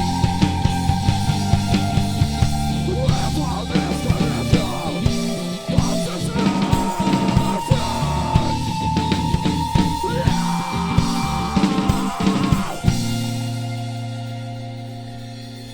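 Live rock band playing guitars and drums with a fast, heavy beat. About thirteen seconds in they stop on a final chord that rings on and slowly fades out, ending the song.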